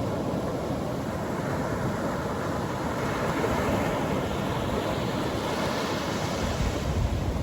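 Atlantic Ocean surf breaking and washing up the beach in a steady rush of noise, with one wave's hiss swelling about halfway through and easing near the end.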